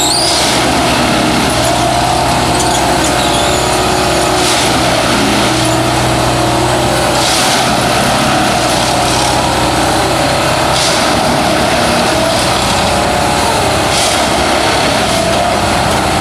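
A heavy engine running steadily and loud, with a short hiss every three seconds or so.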